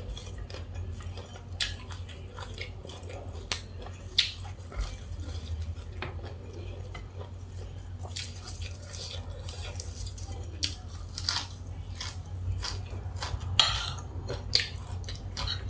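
A person chewing and eating grilled beef salad close to the microphone, with scattered short clicks and crunches of mouth and utensil sounds over a steady low hum.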